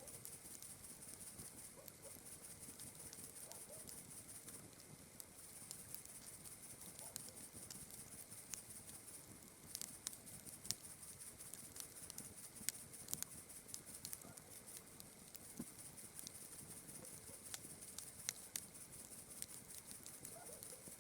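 Campfire crackling faintly with sharp pops, more of them and louder in the second half, over a steady, rapidly pulsing high chirring of night insects.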